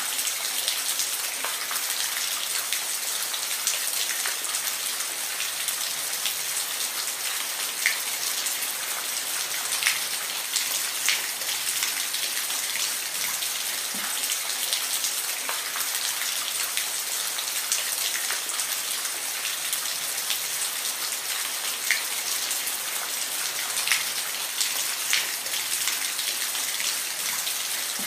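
Steady rain, an even dense hiss, with a few single drops ticking out louder now and then.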